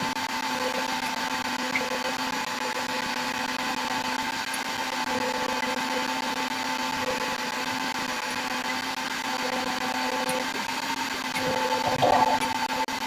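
An electric motor running steadily with a whirring hum, with a few knocks near the end.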